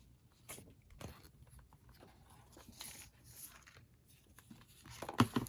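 Paper and bookbinding tools being handled on a work surface: faint rustling and scattered light taps, then a quick cluster of sharper knocks near the end.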